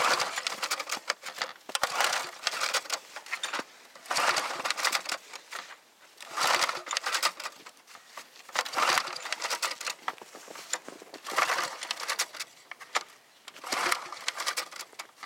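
Small go-kart mower engine being pull-started cold, about seven recoil-starter pulls every couple of seconds, each a short burst of cranking that dies away without the engine catching.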